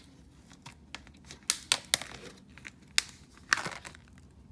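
An 8-ounce plastic slime container being opened: a few sharp plastic clicks in the first half, then a short crinkling, tearing rustle a little past the middle.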